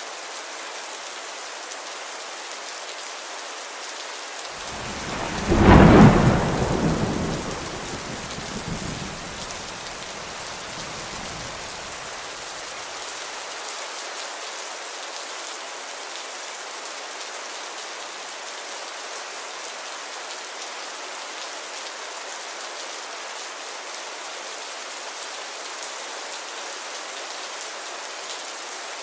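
Steady rainfall hiss. A few seconds in, a clap of thunder breaks loud and rolls away in rumbles that fade out over several seconds.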